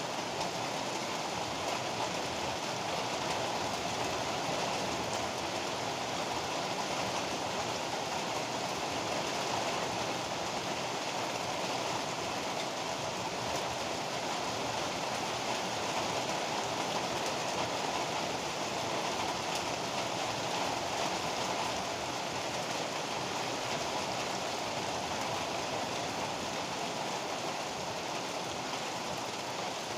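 Heavy rain pouring steadily, a dense, even hiss with no thunderclaps.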